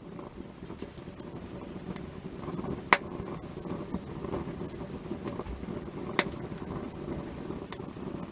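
Wood campfire burning with a steady crackle, with two sharp loud pops, about three seconds in and again about six seconds in.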